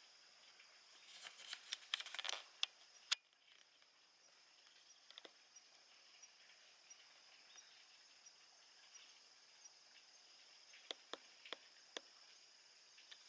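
Near-quiet background with a quick run of small sharp clicks and taps about a second in, then a few single clicks near the end, over a faint steady high whine.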